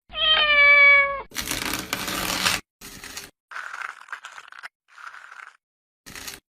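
A cat meows once, a single slightly falling call about a second long, followed by a loud rush of noise lasting about a second and then several softer, short rustling sounds.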